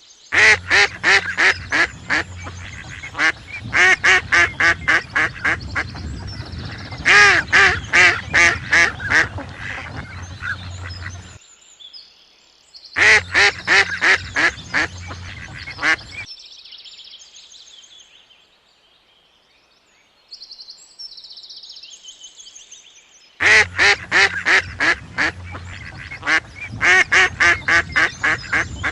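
Birds calling in rapid runs of loud, harsh repeated calls, about four or five a second, in several bouts with pauses between.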